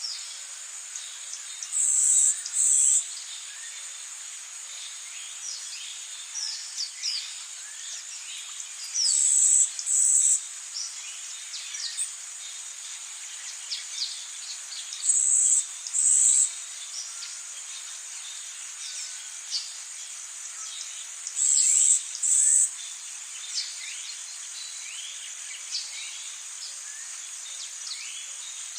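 Rainforest insect and bird chorus: a steady high-pitched insect drone, a loud double buzz that repeats four times about every six to seven seconds, and many short falling chirps.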